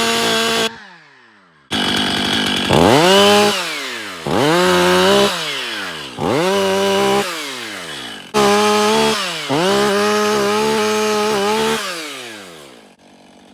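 Stihl MS 500i fuel-injected 80cc two-stroke chainsaw, just cold-started, being blipped to full revs about five times and falling back toward idle in between. The last rev is held longest before the engine drops off.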